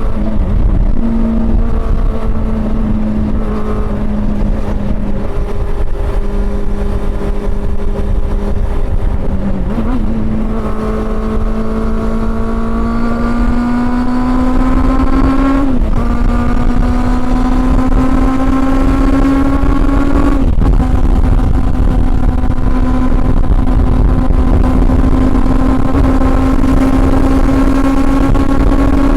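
Honda CB400 Super Four inline-four engine under way, holding a steady pitch at first. From about ten seconds in it climbs in revs and shifts up twice, about six and eleven seconds later, the pitch dropping briefly at each shift before rising again.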